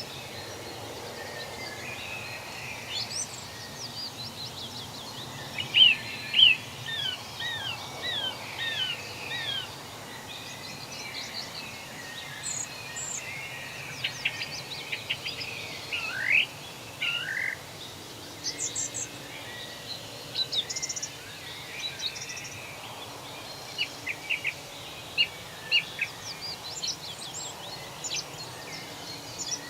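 Forest birds singing and chirping over a steady background hiss. The calls are short notes, quick pitch sweeps and a few rapid trills, coming and going throughout.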